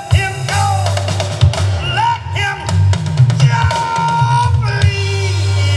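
Recorded song played back through Axxess L3 loudspeakers driven by an Axxess Forte 3 streaming amplifier: a steady bass line, a drum kit and a sung melody with a long held note near the middle.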